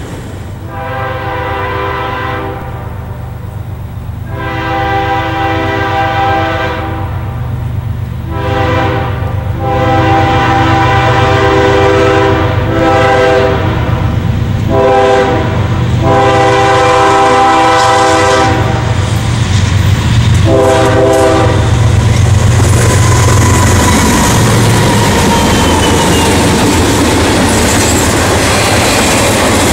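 Freight locomotive's multi-note air horn sounding a series of mostly long blasts, with a couple of shorter ones, as a grade-crossing warning, over the low drone of its diesel engine. In the last quarter the horn stops and the train rolls by, a loud rumble with wheel clatter from intermodal cars carrying highway trailers.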